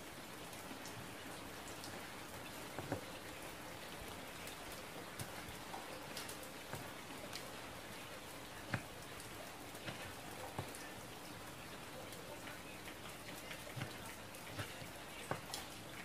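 Steady hiss of falling water, like rain, with a few scattered sharp knocks of a kitchen knife cutting tomatoes on a wooden board.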